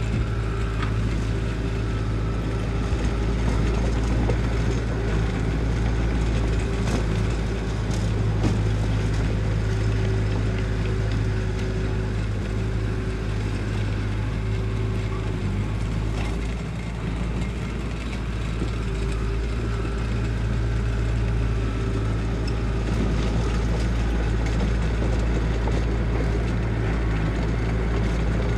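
Heavy diesel engine of construction machinery running steadily, easing off briefly a little past halfway and then picking up again.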